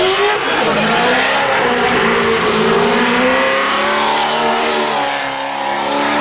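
Drift car engines revving hard, their pitch rising and falling with several engines overlapping, and a brief dip in loudness near the end.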